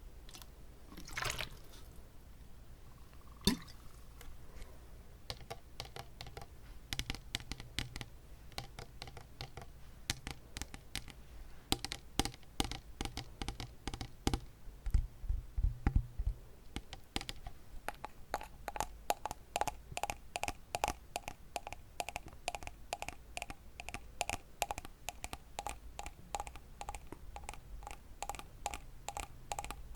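Close-miked wet mouth sounds: tongue clicks and lip smacks, scattered at first. About two-thirds of the way in they become a quick, even run of wet clicks.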